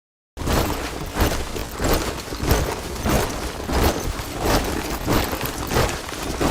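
A body of soldiers marching in step, their boots striking the ground together at a steady beat of a little under two steps a second. The sound starts abruptly about a third of a second in.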